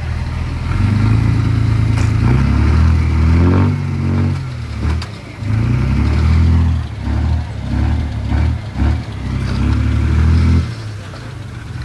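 Heavy diesel engine of earthmoving machinery revving under load, the engine note rising and falling again and again as the machine works, then easing off near the end.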